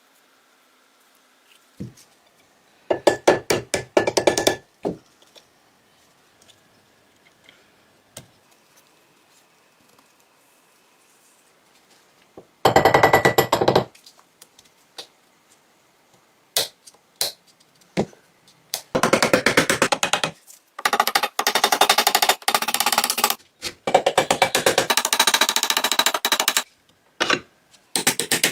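Several bursts of rapid clicking, each one to three seconds long, with a few single clicks between them, from tools at work stripping a Colt M1903 Pocket Hammer pistol.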